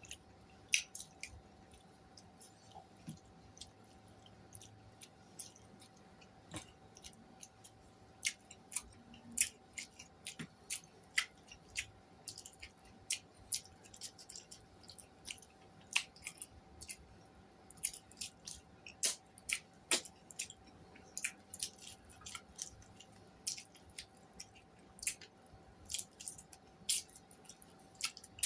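Close-up eating sounds: chewing with many irregular wet mouth clicks and smacks, over a faint steady hum.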